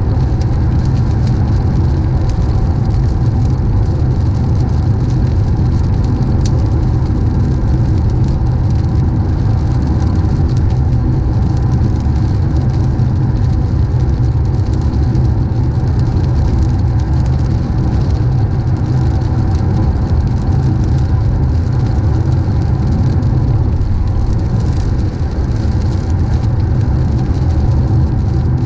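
Car driving on a wet road: a steady low rumble of road and engine noise with a hiss of tyres and rain.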